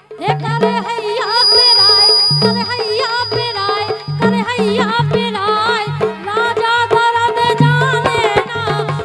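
Instrumental passage of Bundeli folk music. A melodic lead plays bending, ornamented notes over a steady, driving hand-drum rhythm, starting just after a brief dip at the very start.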